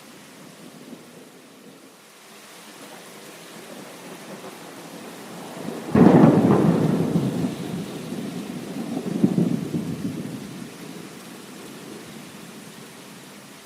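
Steady heavy rain with a sudden thunderclap about six seconds in that rumbles on, swells again a few seconds later, and fades back into the rain.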